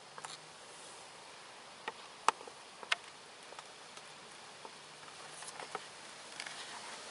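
Steady wind hiss with scattered sharp clicks and taps, the loudest two a little past two seconds and about three seconds in.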